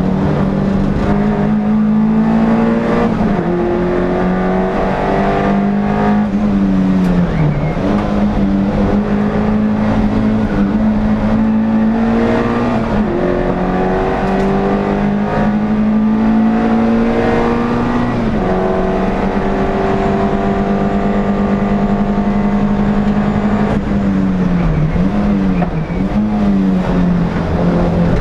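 NSU TT's air-cooled inline-four racing engine at high revs, heard from inside the car. The pitch climbs slowly and then dips sharply about every four to six seconds, with a quicker pair of dips near the end, as the driver changes gear and lifts for corners.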